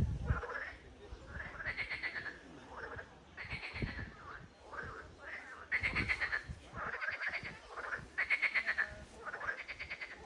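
Frogs calling: short rattling croaks, each a quick run of pulses, repeated about once or twice a second, with two callers alternating.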